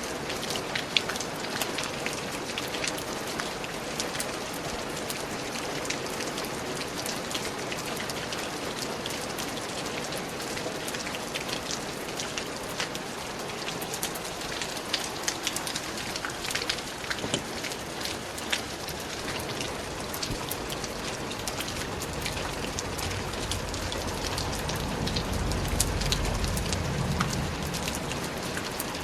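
Steady rain falling in a forest, an even hiss with many distinct close drops. A low rumble swells and fades about three-quarters of the way through.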